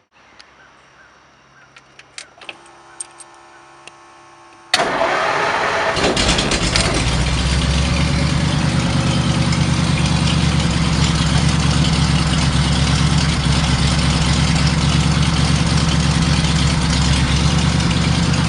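Ford 8BA flathead V8 (bored to 252 cubic inches, Offenhauser heads and four-barrel, on headers) started up. A few sharp clicks come first, then the engine fires about five seconds in and settles into a steady, loud idle.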